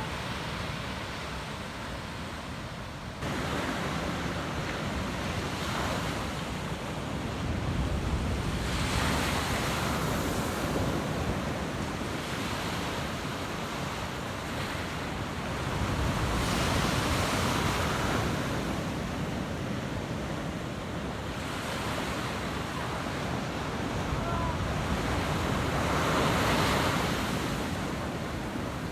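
Sea surf breaking on a beach: a continuous wash that swells as each wave comes in, about every eight or nine seconds.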